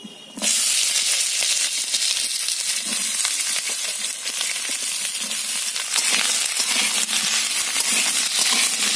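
Cut vegetables sizzling in hot mustard oil in an aluminium kadai. The sizzle starts suddenly about half a second in as they go into the pan and runs steadily, with scrapes and clinks of a metal spatula stirring them.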